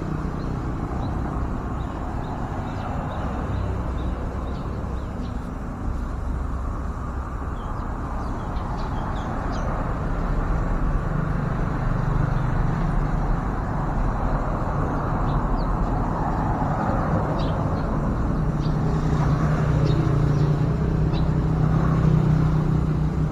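Steady hum of road traffic, swelling a little as vehicles pass about halfway through and again near the end, with a few faint short high chirps over it.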